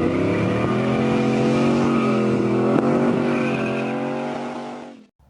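Engine revving up in the first second, then holding at steady revs, before cutting off abruptly near the end.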